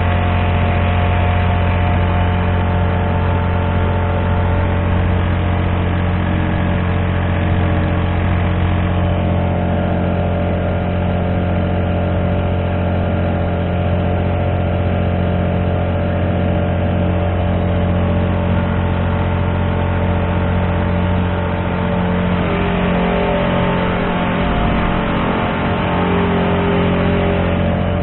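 A Honda GX35 35cc four-stroke engine running steadily at cruising throttle as it pushes a kayak along. Its pitch shifts slightly a couple of times.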